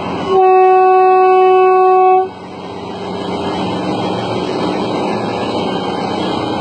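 A horn sounds one steady, single-pitched blast lasting about two seconds, with traffic noise continuing around and after it.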